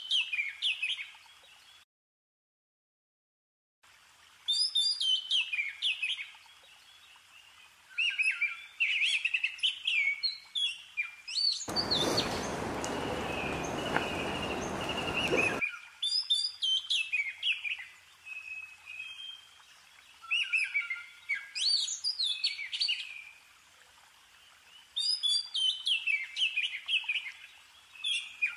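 Songbird chirps in repeated bursts of quick, falling high notes every few seconds, laid on as a stand-in track rather than the scarlet finch's own call. Shortly after the start the sound cuts out completely for about two seconds, and midway a steady rushing hiss runs for about four seconds.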